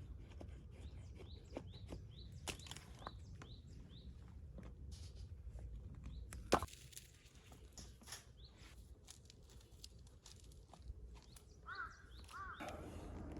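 Faint outdoor ambience of birds chirping over a low steady rumble, with scattered small clicks and knocks and one sharp knock about halfway through. Two short calls come near the end.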